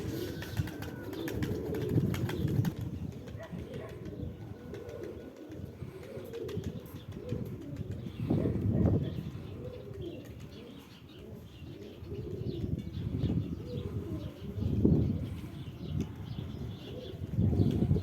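Pigeons flapping their wings in irregular bouts, louder about halfway through and again near the end, with low cooing.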